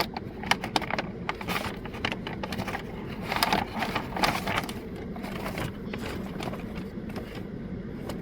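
Irregular crackling and clicking of toy packaging being handled and opened, over a steady low hum.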